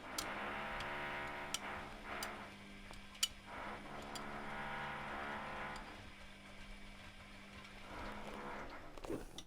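Privileg Classic 30612 washing machine tumbling its drum during a 95°C boil wash: the motor runs in spells of a second or two with short pauses between, as it turns the drum one way and then the other. Several sharp clicks come in the first half.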